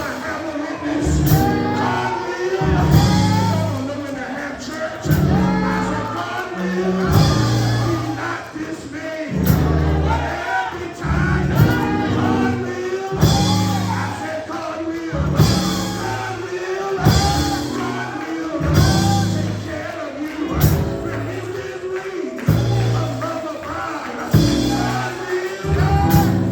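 Gospel church band music, with a pulsing bass line, regular cymbal hits and singing voices over it.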